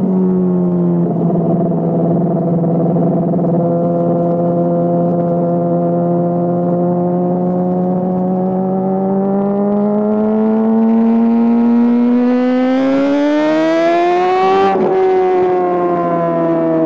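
Honda CBR600RR inline-four engine running through a GPR Deeptone aftermarket exhaust, held at raised revs that creep up. The revs then climb steadily to a peak about fifteen seconds in, drop sharply as the throttle comes off, and ease down.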